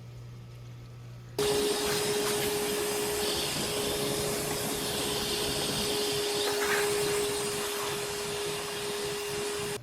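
A motor-driven machine running steadily: one steady whine over a loud rushing noise, starting abruptly about a second and a half in.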